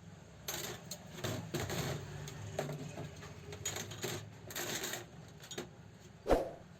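Small metal parts and tools clinking and rattling irregularly on a sewing machine under repair, ending in one sharp metallic knock about six seconds in.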